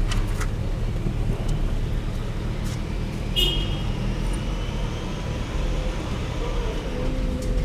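Toyota AE86 Sprinter Trueno's 4A-G engine idling steadily, heard from inside the cabin. A short high beep sounds about three and a half seconds in.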